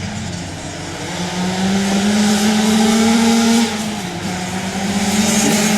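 A race engine running hard: its note climbs steadily, drops sharply about three and a half seconds in as the throttle eases, then climbs again.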